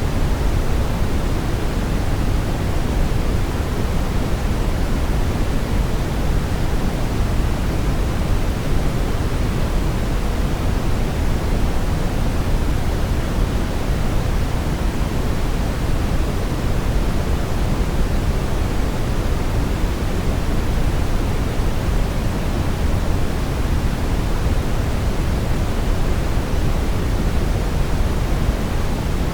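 Steady brown noise: an even, deep rushing hiss weighted toward the low end, with no tones and no changes.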